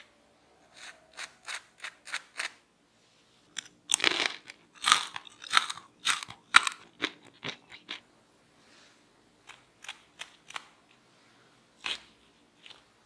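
Crispy fried potato cubes crunching in a run of sharp, irregular crackles: a few at first, a dense loud cluster in the middle, then scattered ones near the end.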